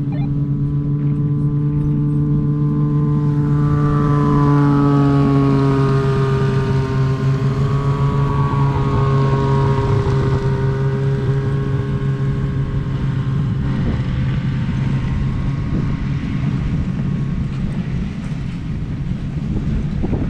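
An engine droning steadily, its pitch shifting slightly up and down for a few seconds partway through, with a rumble of wind on the microphone.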